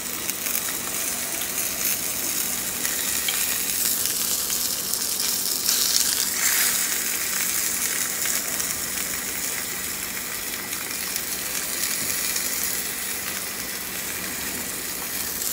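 Salmon frying on the stove, a steady hissing sizzle that swells briefly about six seconds in.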